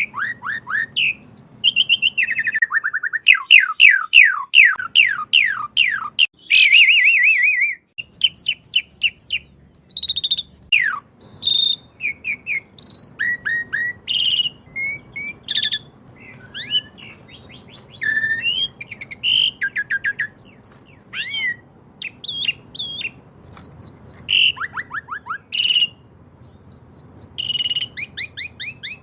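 Asian pied starling (jalak suren) singing continuously: a varied run of whistles, chirps and harsh notes, with a quick series of falling whistled notes a few seconds in. A faint steady sound of running water lies underneath.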